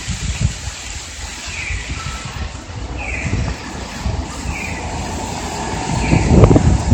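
Strong typhoon wind gusting and buffeting the microphone over a steady rain-and-wind hiss, with the strongest gust near the end. A short chirp repeats about every second and a half.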